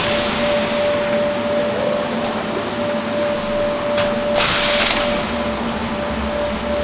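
Automatic MDF panel cutting machine running with a steady hum, and a short hiss of noise about four and a half seconds in after a click.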